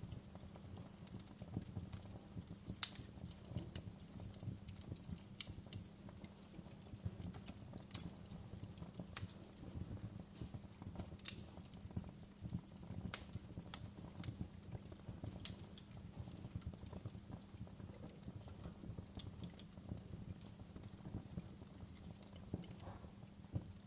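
Wood fire in a fireplace burning with a low steady rumble of flames and frequent irregular crackles and pops, one sharper pop about three seconds in.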